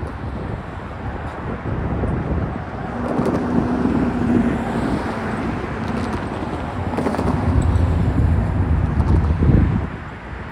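Freight cars of a BNSF manifest train rolling past on the rails, a steady rumble with wind buffeting the microphone.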